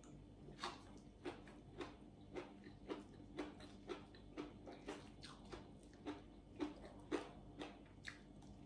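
Close chewing with soft, wet mouth smacks at an even pace of about two a second while a mouthful of fresh greens and sticky rice is eaten.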